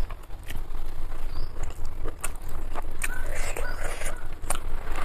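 A person eating chicken biriyani by hand, close to the microphone: chewing and wet mouth clicks and smacks, with the rice handled by the fingers, over a steady low hum.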